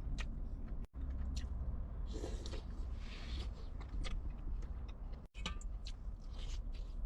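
A person eating hot pot: chewing and mouth sounds with small clicks, over a steady low rumble. The sound drops out briefly twice.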